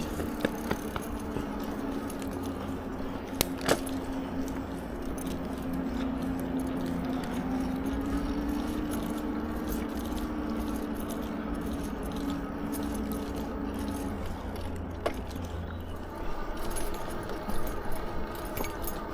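Lectric XP4 e-bike's rear hub motor whining steadily under power, the whine rising a little in pitch about eight seconds in and stopping at about fourteen seconds, with the bike rattling and clinking over the paved path and a low wind and tyre rumble.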